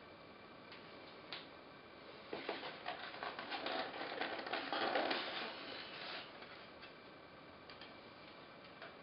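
Packaging being handled: a few small clicks, then a stretch of rustling and crackling with dense clicks from about two seconds in to about six seconds in, loudest near five seconds.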